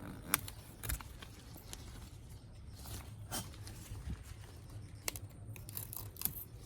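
Chinese broccoli (gai lan) being harvested: a few scattered sharp snips and snaps as stalks are cut, with rustling leaves between them and a small cluster near the end.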